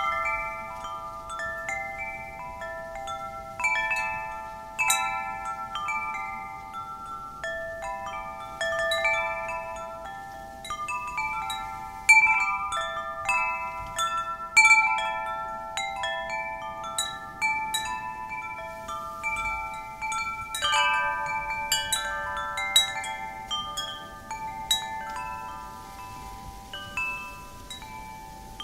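Wind chimes struck irregularly by the wind, several pitched tones ringing and overlapping, with a faint wind rushing underneath.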